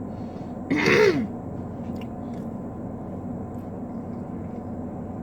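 A short breathy vocal sound from a person about a second in, followed by a steady low background hum with a few faint clicks.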